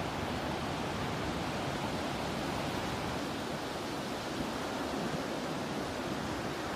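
Steady rush of ocean surf and breeze, an even hiss with no separate wave breaks standing out.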